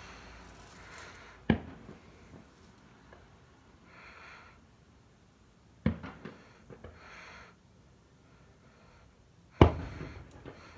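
Fireworks going off: three sharp bangs, each a few seconds apart and followed by a short echoing tail, with faint fizzing between them.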